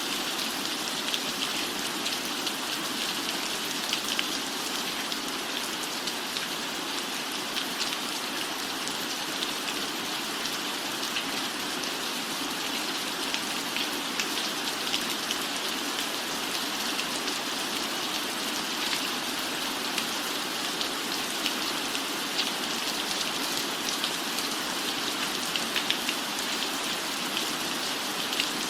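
Steady rain falling, an even hiss with many scattered, sharper drop hits.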